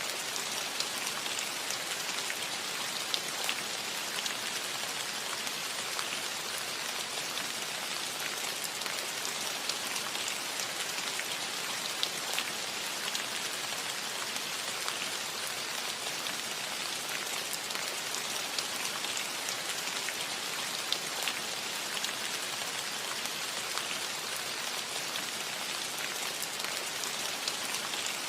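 Steady rain falling on a cottage roof: an even patter with scattered individual drops ticking.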